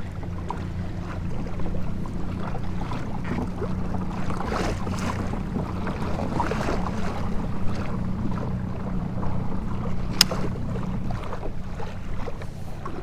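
Minn Kota electric trolling motor on a fishing kayak running with a steady hum, cutting out near the end, over water splashing and wind on choppy water. A single sharp click about ten seconds in.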